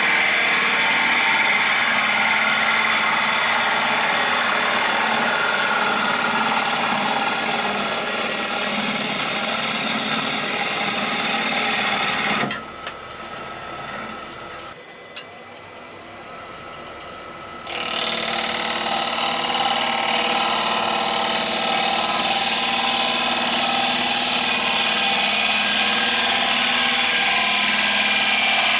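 Wood lathe running while a rowan-wood bowl is turned, a steady machine noise with the tool working the spinning wood. About halfway through the sound falls away sharply for about five seconds, with a single click, then comes back at full level.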